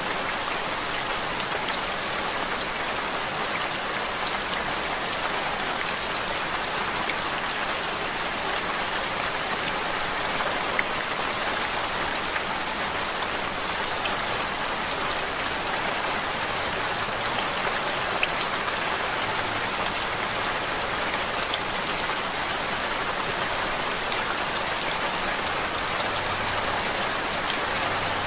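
Steady rain noise: an even hiss with many small drop ticks scattered through it, unchanging in level, played as continuous background noise.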